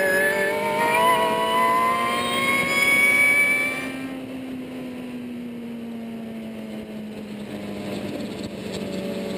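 Ariel Atom's engine heard from the open cockpit, pulling hard with its note climbing steadily for about four seconds. The sound then drops as the throttle is lifted, and the pitch falls slowly while the car slows, picking up a little again near the end.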